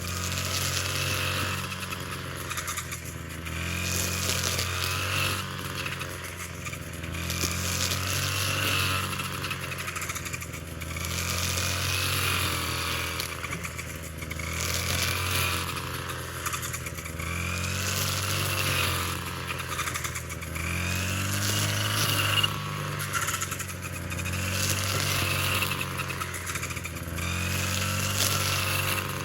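Small engine running steadily, its note and a hissing, whirring sound swelling and fading in a regular cycle about every three and a half seconds, as if under a repeating load.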